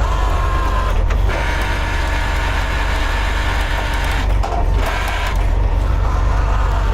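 Heavy tow truck's diesel engine running steadily with a deep, continuous rumble.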